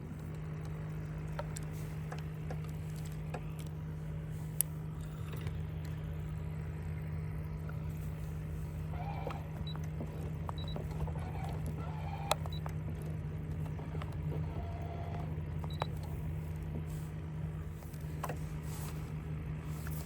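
A steady low motor hum runs throughout, with a few sharp clicks and knocks and some faint short chirps scattered over it.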